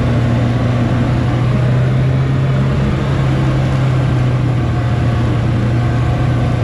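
Bombardier BR100 snowcat's engine running at a steady, unchanging pitch as the machine drives along a snow trail.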